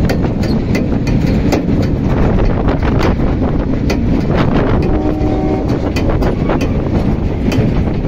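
Train running along the track, heard from on top of a wagon: a steady rumble and rush of wind on the microphone, with irregular clicks and clatter from the wheels and rails. A brief steady tone sounds about five seconds in.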